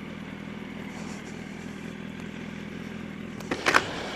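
Yamaha R1 motorcycle engine running steadily, with two brief clicks about three and a half seconds in.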